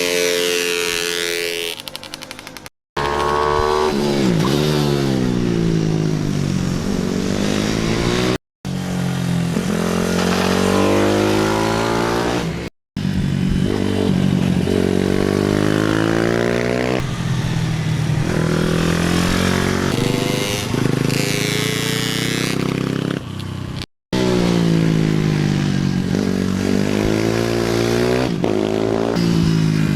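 Pit bike engines revving hard and easing off around a race track, the pitch climbing through the gears and falling away into corners again and again. The sound cuts out abruptly for a split second four times.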